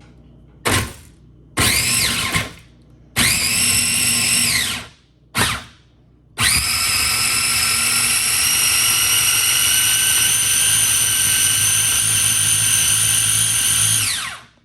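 Electric food chopper run in four short pulses, then steadily for about eight seconds, coarsely grinding onion, cilantro, green chili, ginger and cumin seeds. Its motor whine rises as it spins up and falls as it stops each time.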